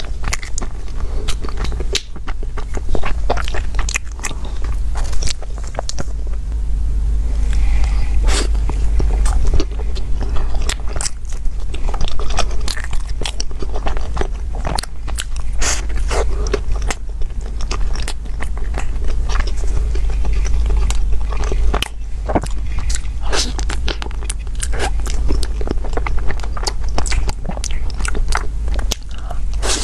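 Close-miked chewing and biting of a soft filled bun with taro paste, pumpkin and sticky mochi: many quick, irregular wet mouth clicks. A steady low hum sits underneath.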